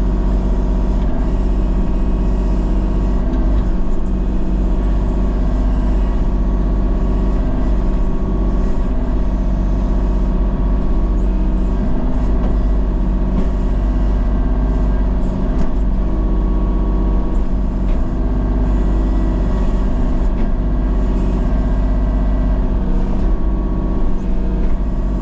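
Engine of a land-clearing machine running steadily, a continuous low rumble with an even engine note.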